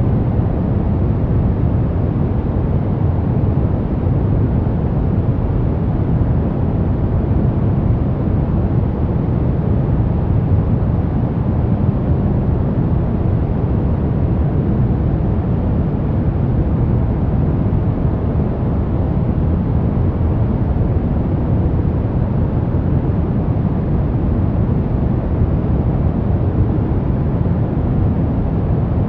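Steady sleep noise: an even, deep rush with most of its strength low down and little hiss on top, with no change, rhythm or separate sounds.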